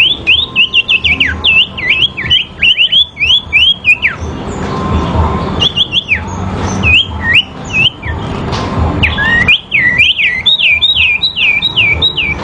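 Sirpu birds in a fighting-song duel: fast runs of loud, swooping whistled notes, in three bursts with short pauses between.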